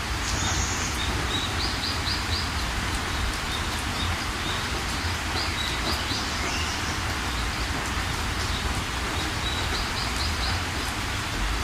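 Steady rain with a low rumble underneath. Over it a bird gives a quick run of about four high chirps three times.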